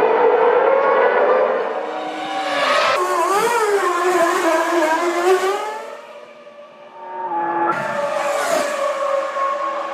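1998 Formula One cars' 3-litre V10 engines at racing speed, their high engine notes rising and falling with gear changes, in a few short back-to-back clips. The sound dies down briefly a little past the middle before another car's engine comes in.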